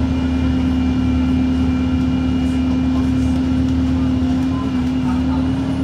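Bus's Cummins ISB4.5 four-cylinder diesel running at a steady pace: a low rumble under one steady whine, which drops a little in pitch near the end.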